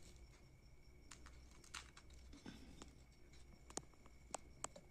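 Near silence with a few faint, light clicks and taps, as crisp golgappa puris are set out on a plate.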